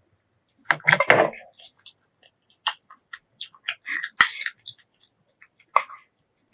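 Close-miked eating sounds: a loud clatter of utensils and dishware about a second in, a sharp click of a utensil against a dish about four seconds in, and scattered small chewing clicks.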